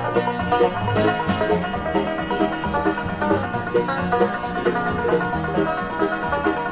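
Bluegrass band playing an instrumental passage: rapid five-string banjo picking in the lead over rhythm guitar and bass.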